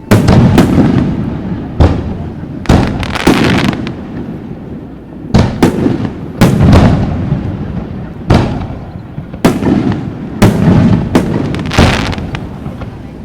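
Aerial fireworks shells bursting one after another, about a dozen loud bangs with rumbling echoes trailing after each, some in quick clusters.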